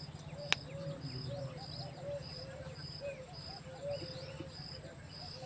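Faint birdsong and outdoor ambience: a high short chirp repeats evenly about twice a second over lower short calls and a low steady hum, with one sharp click about half a second in.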